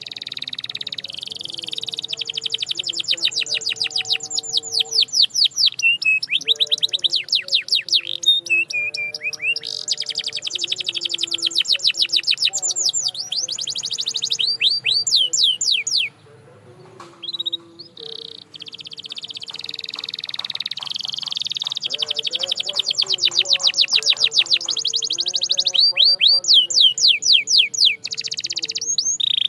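Canary singing in rapid trills: fast runs of repeated sweeping high notes, phrase after phrase, with a brief pause about halfway through.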